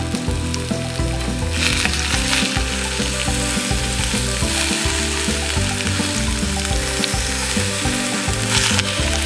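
Food sizzling as it fries in a pan, the sizzle growing louder about a second and a half in.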